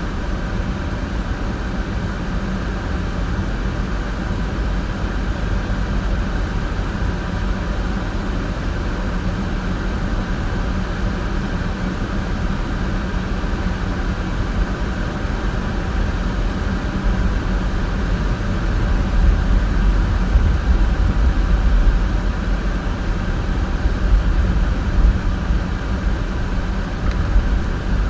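Car driving: a steady rumble of road and engine noise, growing somewhat louder about two-thirds of the way through.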